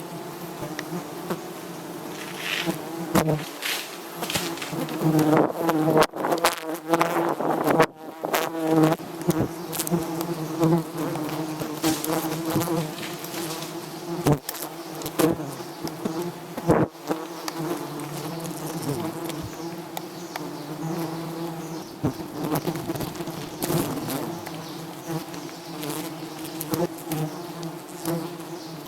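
Many honeybees buzzing in a steady, dense hum around an open hive, with occasional sharp knocks.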